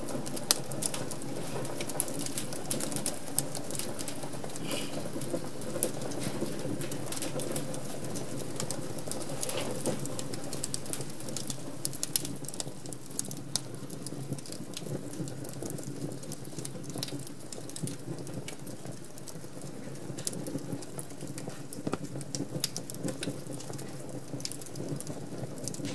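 Wood fire crackling in a fireplace: many sharp, irregular pops and snaps over a steady low background.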